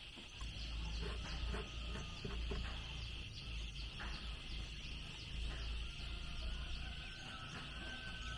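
Rural farm ambience: insects drone steadily while chickens cluck a few short times early on, over a low rumble.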